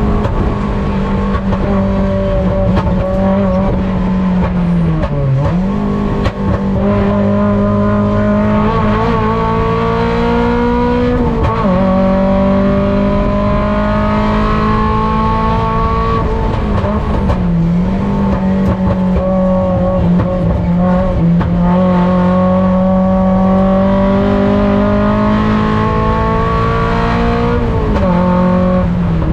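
Mazda Miata race car's four-cylinder engine under hard load, heard from inside the cockpit. Its pitch climbs slowly and steadily, then dips sharply and recovers about four times.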